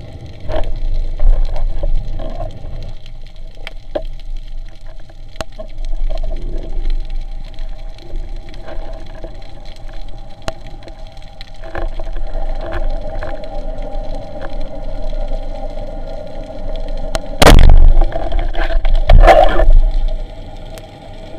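A steady mechanical hum, such as a boat's motor, with water noise and scattered clicks. Two loud, brief rushes of sound come near the end.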